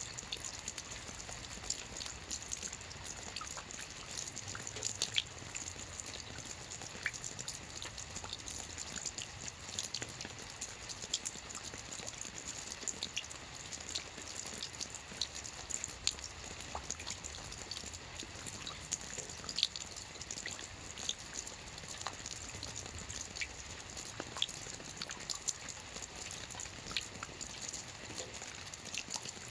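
Soft rain falling steadily on a roof, a constant hiss with many individual drops tapping irregularly.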